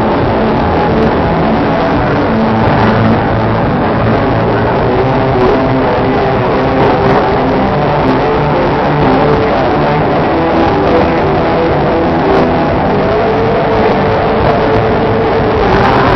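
Loud live band music with guitar, playing without a break.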